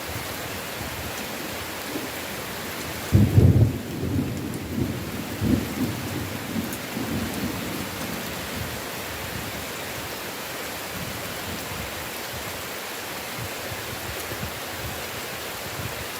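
Heavy rain falling steadily, with a sudden loud thunderclap about three seconds in that rolls on as low rumbling for several seconds before dying back to the rain.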